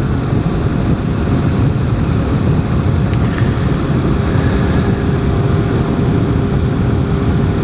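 Sportbike riding at a steady speed: engine drone mixed with wind rushing over the microphone.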